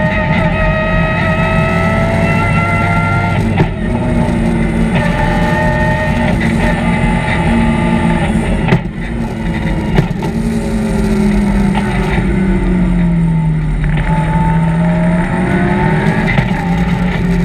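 BMW M3 rally car's engine under hard driving, heard from inside the cockpit, its note climbing and dropping as it revs up and shifts. Brief sharp knocks come about four, nine and ten seconds in, and the engine note sags and builds again around twelve to fifteen seconds in.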